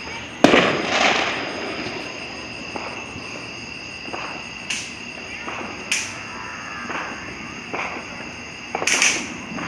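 Fireworks going off: a sharp bang about half a second in, followed by crackling, then scattered pops and bangs. Another burst of bangs comes near the end.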